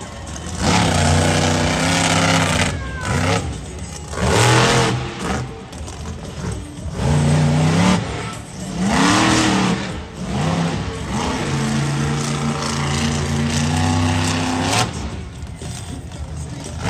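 Monster truck engine revving hard again and again, its pitch climbing, holding and dropping in bursts a second or few long, with short lulls between.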